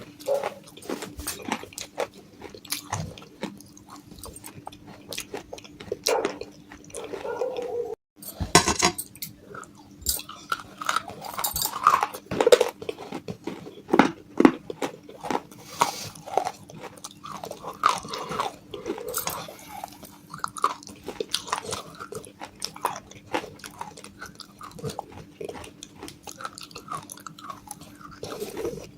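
Close-up crunching and chewing of broken pieces of clay pot: a dense run of sharp, gritty crunches. There is a faint steady hum underneath, and a brief silent gap about 8 seconds in.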